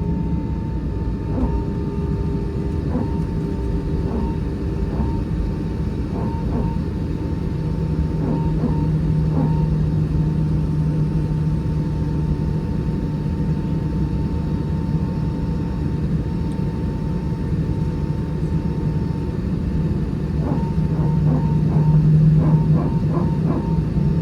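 Steady low rumble and hum inside the cabin of an Airbus A320 on the ground, with faint scattered clicks. The hum swells twice, from about a third of the way in and again near the end.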